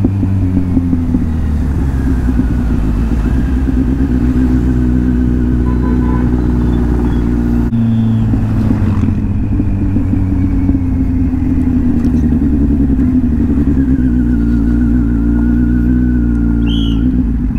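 Kawasaki Z800's inline-four engine running steadily while riding at moderate revs. About eight seconds in the engine note drops suddenly, as with a gear change or closing the throttle, then climbs slowly again.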